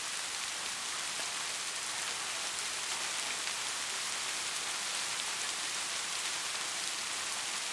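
Heavy rain falling steadily: an even hiss of countless drops with faint scattered ticks of individual drops.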